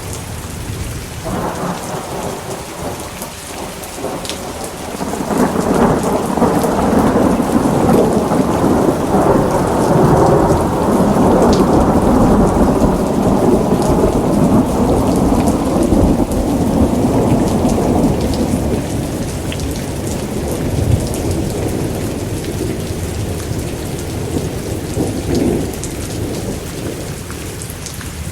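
Thunderstorm: steady rain pattering throughout, with a long rolling rumble of thunder that starts a second or two in, swells loudest from about five to eighteen seconds, then slowly dies away near the end.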